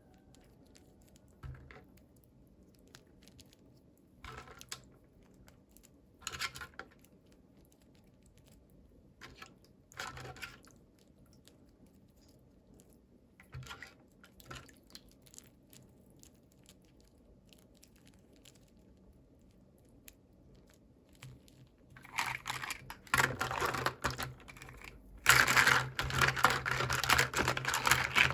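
Toy packaging being handled and opened: a few scattered rustles and clicks, then from about three quarters of the way through, a long stretch of loud, dense crinkling and tearing of plastic wrapping.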